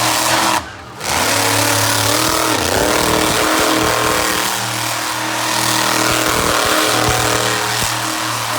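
Monster truck engine running loud and revving, its pitch rising and falling. The sound dips briefly just under a second in.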